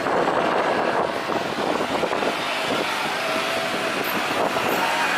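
Jet airliner's engines running, a steady rushing noise with faint whining tones.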